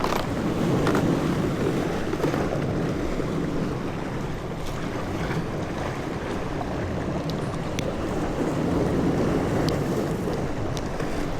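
Steady wind noise on the microphone over the wash of sea water around a small fishing boat, with a few faint ticks.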